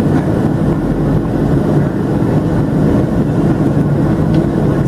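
Steady cabin noise inside a Boeing 737-700 in flight: the low hum and rush of its CFM56-7B jet engines and the airflow over the fuselage.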